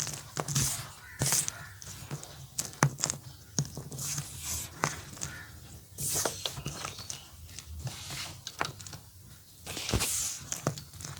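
Orange gym chalk being crumbled: irregular crunching and crackling, with sharp snaps here and there and fuller crumbly bursts about halfway and near the end.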